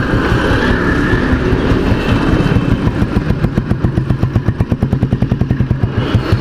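1970 Royal Enfield Bullet 350's single-cylinder four-stroke engine running under way with a strong exhaust note. It slows toward the end to a slower, evenly spaced beat as the bike eases off.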